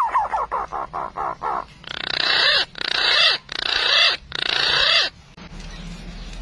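Bird calls: a quick run of short notes for the first second and a half, then four long harsh calls in a row, ending about five seconds in.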